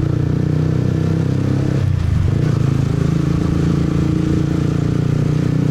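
Motorbike engine running steadily while riding, with a brief change in the engine note about two seconds in.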